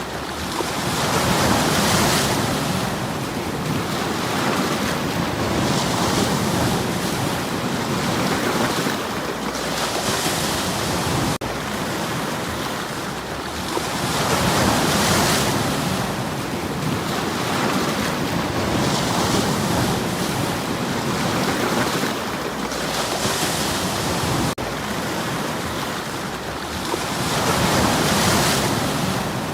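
Sea waves breaking and washing over stones. The rush swells and ebbs every four to five seconds, with a hissing wash at each break.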